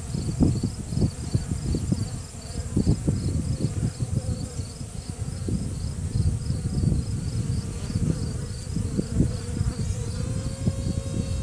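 Honeybees buzzing on a hand-held brood frame, with crackling rustles. About ten seconds in, a virgin queen starts a steady, held piping tone, the trumpet-like call of a virgin queen asserting dominance. A faint high pulsing, about three times a second, runs underneath.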